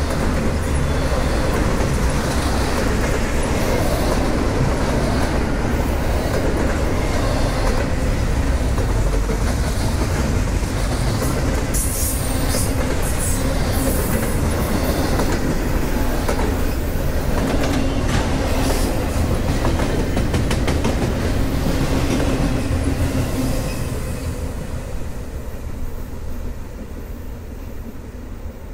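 Double-stack intermodal freight train rolling past close by: steady rumble of steel wheels on rail with clickety-clack over the rail joints, and a brief high screeching about halfway through. The noise falls away over the last few seconds.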